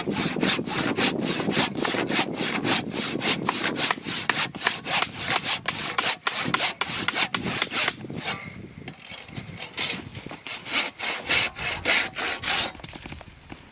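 Hand saw cutting through wood in fast back-and-forth strokes, about four a second. After about eight seconds the strokes thin out and grow weaker, then stop.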